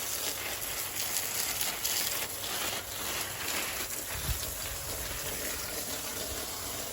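Water from a garden hose spraying onto garden plants, a steady splashing hiss like rain on leaves, with a brief low thump about four seconds in.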